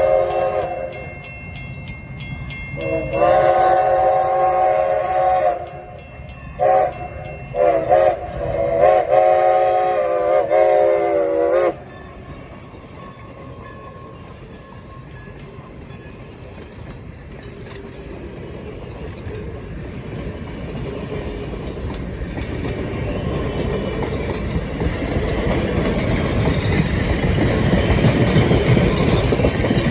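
Locomotive multi-chime air horn blowing long, long, short, long, the pattern sounded for a grade crossing. After it the train's rumble and wheel noise grow steadily louder as it approaches and passes.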